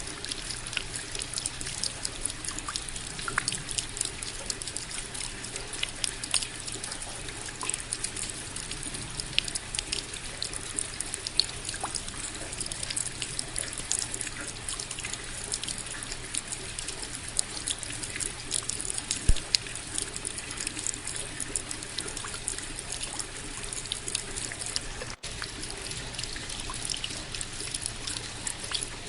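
Steady rain: an even wash of falling water with many close individual drops striking. A split-second gap in the sound about 25 seconds in.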